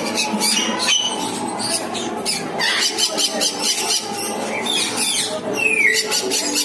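Birds chirping and squeaking: many quick, high chirps and short squeaky calls in a continuous busy chatter, over steadier lower tones.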